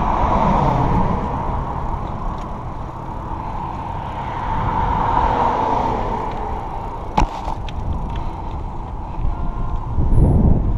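Bicycle riding noise: tyres rolling on pavement and mechanical rattle, with wind on the microphone. A sharp click comes about seven seconds in, and heavy wind buffeting near the end.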